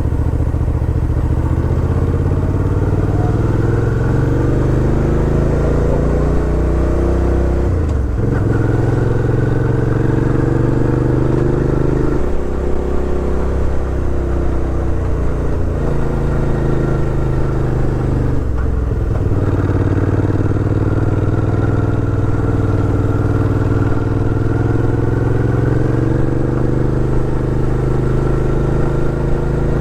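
Suzuki V-Strom 650 XT's V-twin engine under way, its note rising and falling with the throttle. It dips sharply twice, about eight seconds in and again about eighteen seconds in.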